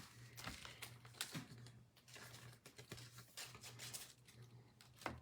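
Faint clicks and rustles of football trading cards being handled and flipped through, over a low steady hum.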